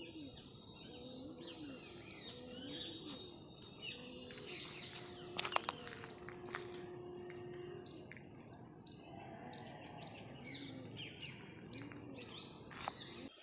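Birds calling: small birds chirping high over a low call repeated about once a second, with a few sharp clicks about five seconds in.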